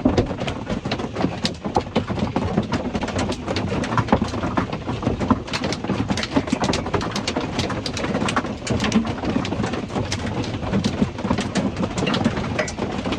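Large hailstones pelting the thin metal shell and roof of a small vintage travel trailer, heard from inside: a dense, irregular clatter of hard knocks, many a second, over a steady rushing bed.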